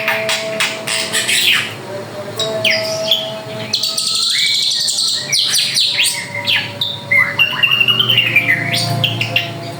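Drongo singing hard, a busy, varied stream of whistles, sweeping notes and quick chirps.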